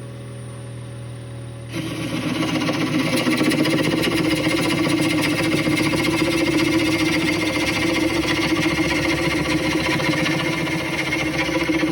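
Bench grinder running, then a steel lathe parting tool pressed to the wheel about two seconds in: a harsh, continuous grinding noise over the motor's steady tone as the tool is sharpened.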